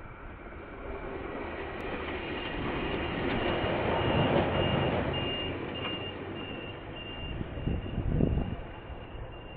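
A KiwiRail train passing, its rumble rising to a peak about four seconds in and then fading, with a thin, steady, high-pitched squeal over it and a few low thumps near the end. Heard through a security camera's microphone, so it sounds thin and dull at the top.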